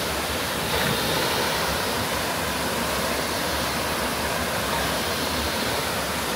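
Waterfall and river water rushing, a steady full noise with no breaks.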